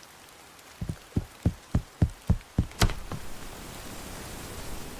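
A quick, even series of about eight dull thumps, roughly three a second, with one sharper click among them, followed by a steady hiss of rain.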